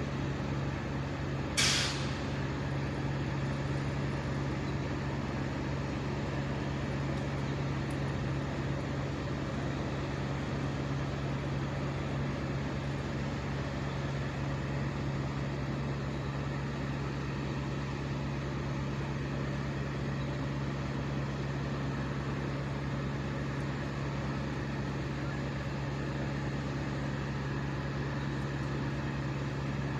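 Engine running steadily at high speed, a constant hum. A brief sharp hiss of air cuts in about two seconds in.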